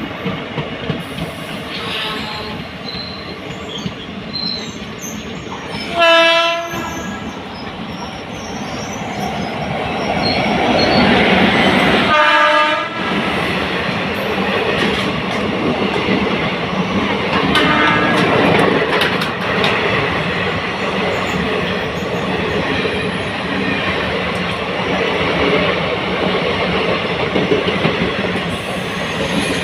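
Indian Railways train running through the station, its wheels rumbling and clacking over the track and swelling louder about ten seconds in. The horn sounds twice, at about six and twelve seconds, with a fainter blast near eighteen seconds.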